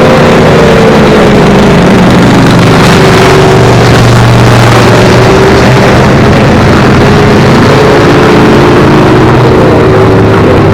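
Several race car engines running hard around the track, so loud that the recording is near its limit, with engine notes drifting slightly up and down over a continuous rough noise.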